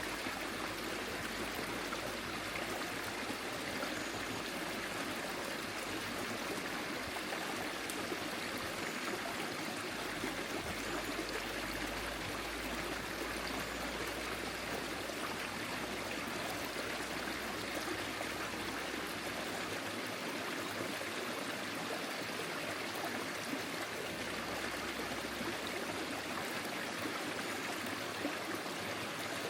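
Forest stream flowing, a steady rush and trickle of water over stones.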